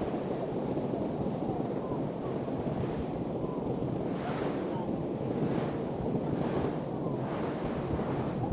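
Ocean surf breaking and washing on a beach, with wind rumbling on the microphone. The noise swells several times in the second half.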